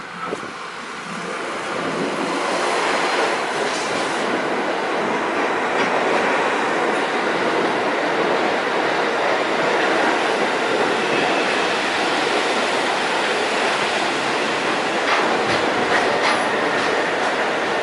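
New York City subway train running past on the tracks. The noise builds over the first couple of seconds, then holds steady and loud.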